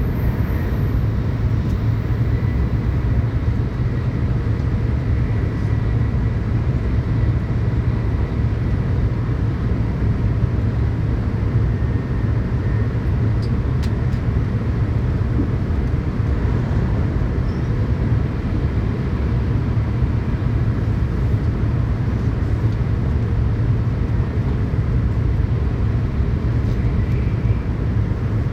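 Steady low rumble and rush of a Tōkaidō Shinkansen train running on the line, heard inside the passenger car, with a few faint clicks about halfway through.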